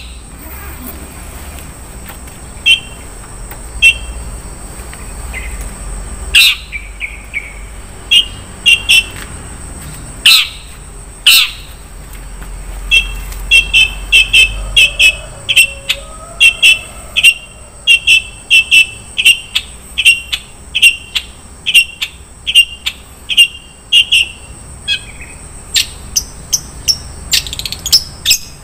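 Long-tailed shrike (cendet) singing a varied 'isian' song: loud sharp chips mixed with runs of short repeated notes, some in quick pairs, coming faster and closer together in the second half. A steady high-pitched tone runs underneath.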